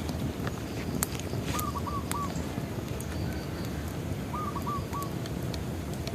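Bonfire burning with a steady low rustle and scattered sharp crackles and pops. A bird calls twice, each time three quick notes.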